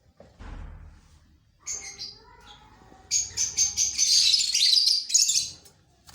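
Caged lovebirds chirping shrilly: a short call about two seconds in, then a loud run of rapid chirps from about three to five and a half seconds. A brief low rumble comes about half a second in.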